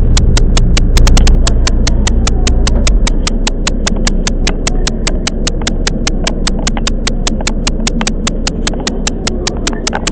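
Electric train running, heard from inside the car: a low rumble that eases off about three seconds in, under a fast, even ticking of about five sharp clicks a second.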